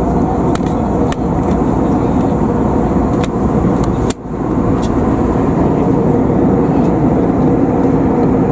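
Steady in-flight cabin noise of an Airbus A320neo, a dense, even rush heard from a passenger seat, with a brief dropout about four seconds in.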